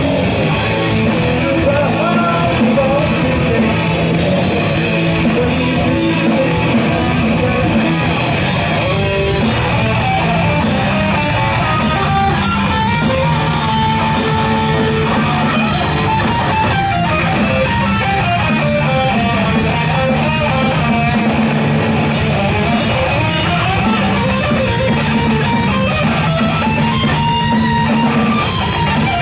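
Live heavy metal band playing loud, with guitar riffing throughout.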